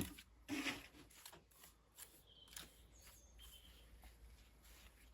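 Quiet outdoor background with a single sharp knock at the start and a brief scuff just after. A few faint, high chirps, like small birds, come about two and three seconds in.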